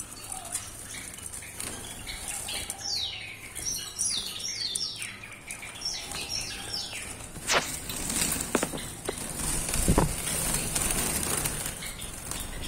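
Caged finches chirping in a run of short, high, falling calls. Later come wing flutters and a few sharp knocks, about 7.5, 8.5 and 10 seconds in.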